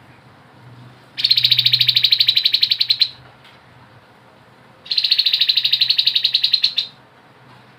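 Grey-headed babbler giving two long, rapid rattling trills (the 'ngebren' call), each lasting about two seconds, with a pause between them.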